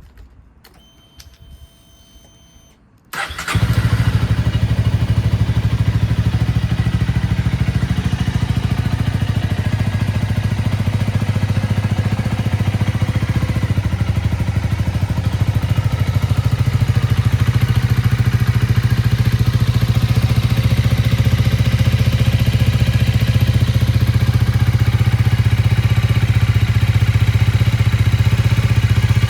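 Honda Rebel 250's single-cylinder engine started from cold: after a few seconds of quiet with a faint whine, the starter cranks briefly, the engine catches about three seconds in, and it then idles steadily.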